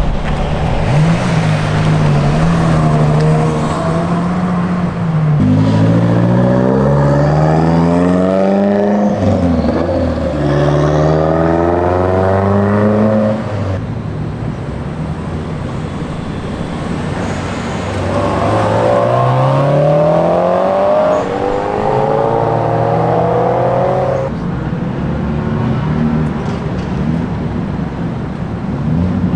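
Ferrari GTC4Lusso engine and exhaust running steadily, then revving up in long rising climbs: two back to back, then a quieter spell, then one more.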